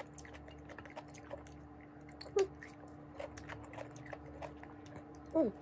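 Close-miked chewing of stir-fried vegetables, with soft wet mouth clicks and smacks. A short falling vocal sound comes near the end.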